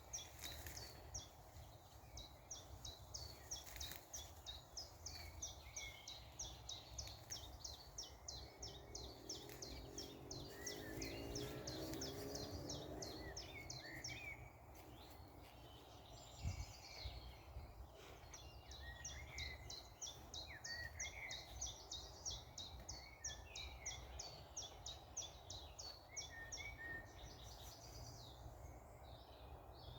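Small birds chirping in quick, repeated high notes, pausing for a few seconds midway, over a steady low outdoor rumble, with a faint rising hum in the first half.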